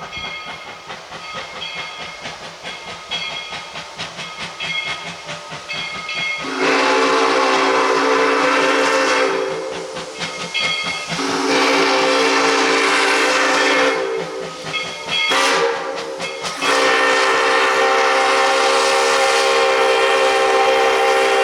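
Narrow-gauge steam locomotive #7 (a Bridgton and Saco River 2-4-4T Forney) running with steady rhythmic exhaust beats, then sounding its multi-tone chime whistle in four blasts (long, long, short, long), the grade-crossing signal.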